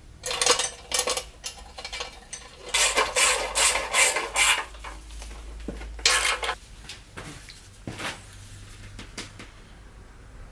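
Small metal parts clinking and scraping against each other in irregular bursts, with a long clattering run in the middle and a few light clicks near the end.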